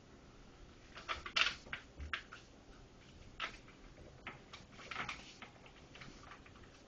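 Sheet of paper being folded and creased by hand: irregular crinkles and rubs, loudest about a second and a half in and again around five seconds in.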